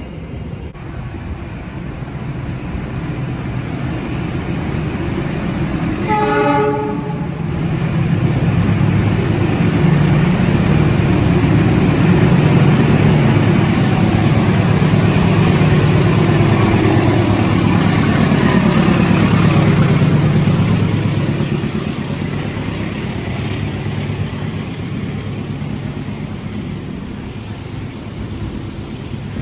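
Container freight train passing: the locomotive's horn sounds one short blast about six seconds in, then the diesel locomotive and its container wagons go by with a loud steady rumble that builds, holds for about ten seconds and fades away.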